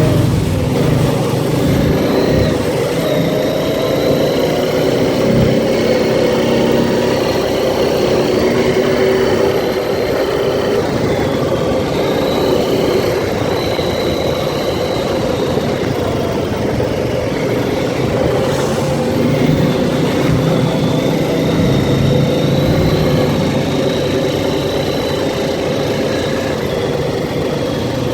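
ATV engine running steadily while riding, its pitch rising and falling a little with the throttle, over rough wind and terrain noise.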